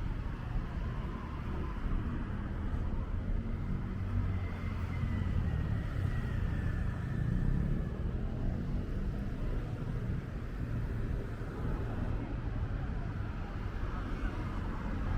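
Road traffic: a steady low rumble of passing cars, swelling as a vehicle goes by about five seconds in, with a faint falling whine.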